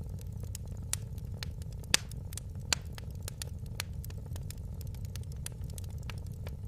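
Wood fire crackling in a fireplace: a steady low rumble of burning with frequent small snaps and a few louder pops, the sharpest about two seconds in.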